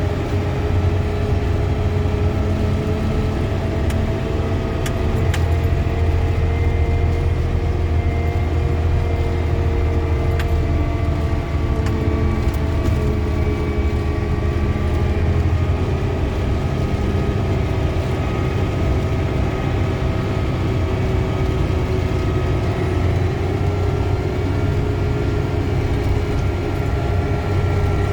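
Motor vehicle driving at a steady pace: a continuous engine drone with a low hum, its pitch drifting slowly up and down, over road noise.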